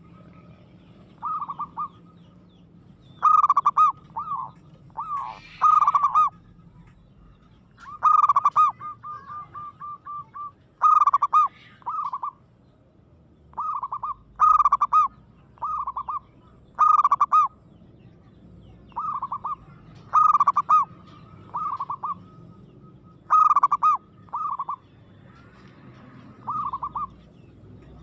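Zebra dove (perkutut) cooing its song: short phrases of two to four clipped, ringing notes, repeated every two to three seconds. One phrase about a third of the way in ends in a quick rattling run of notes.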